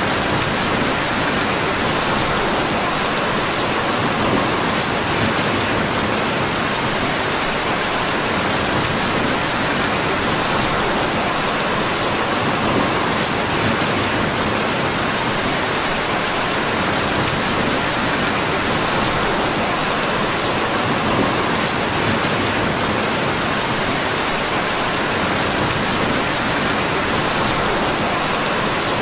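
Steady rain falling, an even, unbroken hiss with scattered faint ticks.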